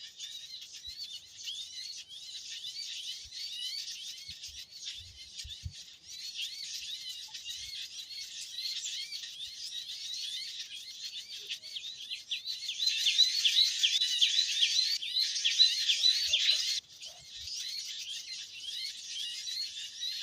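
Many small birds chirping in a dense, noisy chorus of rapid, high, repeated chirps. The chirping grows louder about two-thirds of the way through, then drops back suddenly a few seconds later.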